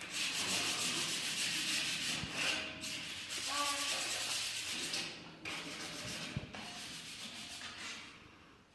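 Rough rubbing and scraping in long strokes, louder for the first five seconds and fading out near the end.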